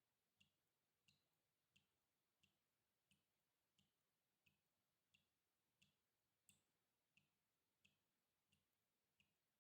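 Water dripping in a slow, even rhythm, about three drops every two seconds, each a faint plip with a short high ping. One drop about two-thirds of the way through is a little louder than the rest.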